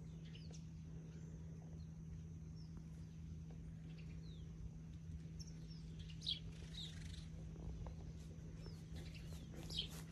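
Birds chirping faintly in short, high, falling notes, with a few louder calls in the second half, over a steady low hum.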